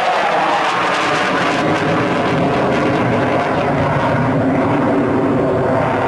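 Sukhoi Su-27 fighter's twin AL-31F afterburning turbofans: loud, steady jet noise of the display flight, its low rumble filling in after about a second and a half.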